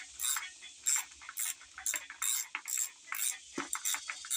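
Ratchet wrench clicking in short, irregular strokes, about three a second, as a stubborn shouldered fuel pump bolt is worked loose on a small-block V8.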